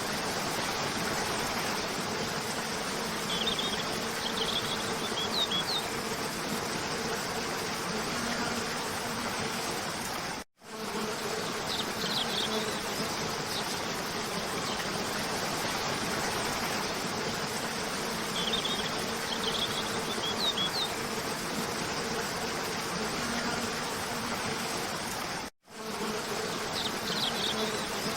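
Steady rush of a cascading waterfall with short clusters of high bird chirps every several seconds. The sound cuts out abruptly for a moment twice, at the seams of a looped recording.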